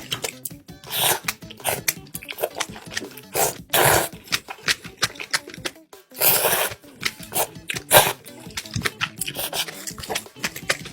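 Close-miked mukbang eating sounds: soybean noodles slurped in several long noisy pulls, with wet chewing clicks and crunches of kimchi, over background music.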